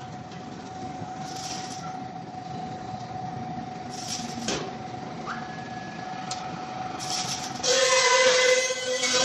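Laser welding tube forming machine running, with a steady mechanical hum and one held tone. About three-quarters of the way in, a louder high-pitched metallic screech with several tones starts up and lasts to the end.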